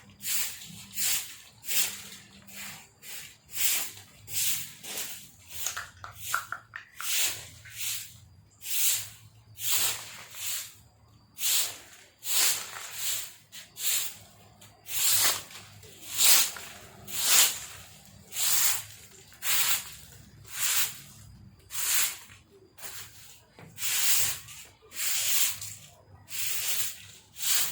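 A broom sweeping fallen leaves, in a steady run of brushing strokes about one a second.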